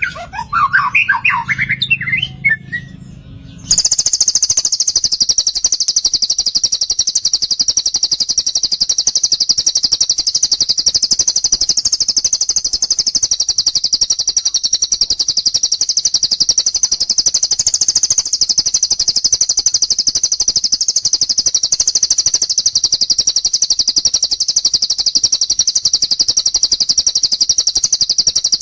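Bird song: a few seconds of varied whistled notes, then from about four seconds in one continuous high-pitched, very rapid trill that runs on unbroken. This is the long 'tembakan panjang' trill of the sort used in lovebird and cililin masteran recordings.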